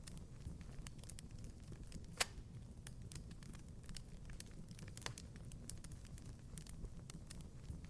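Wood fire crackling in a fireplace: a low steady rumble under frequent small snaps, with a sharper pop about two seconds in and another about five seconds in.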